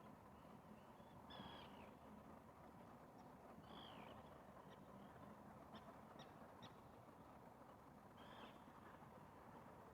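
Faint distant bird calls: a few short calls several seconds apart and a quick run of chips near the middle, over a soft steady background hiss.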